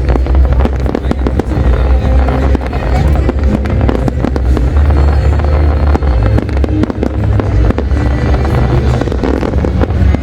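Loud, non-stop aerial fireworks display: a continuous barrage of rapid bangs and crackles over deep rolling booms.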